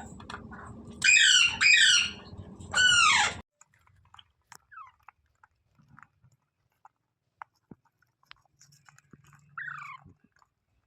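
Rose-ringed parakeet (Indian ringneck) calling: four loud, harsh screeches, each falling sharply in pitch, in quick succession in the first three seconds. Then scattered soft clicks and one more falling call near the end.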